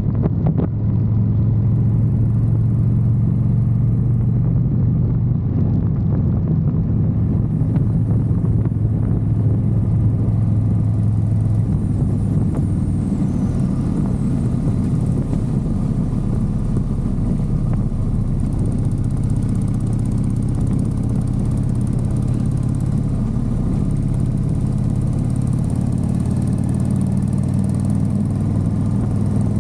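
Motorcycle engine running steadily while riding at cruising speed, holding a low, even note.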